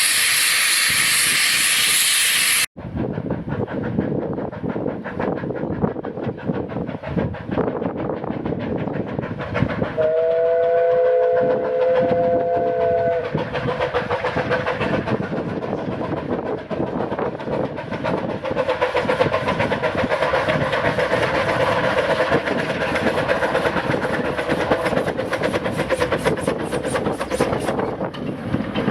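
Steam locomotive blowing off a loud steady hiss of steam, cut off abruptly about three seconds in. Then a steam train on the move, with a dense rapid clatter, and a steam whistle blown for about three seconds near the middle.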